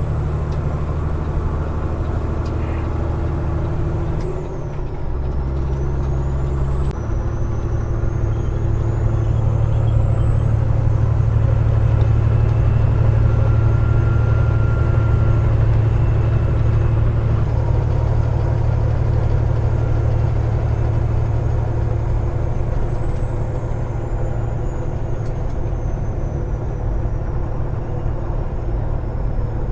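Diesel engine of a Peterbilt 389 glider truck running steadily on the road. About four seconds in the engine note dips and changes, and from about seven seconds it settles back to a steady, slightly louder drone.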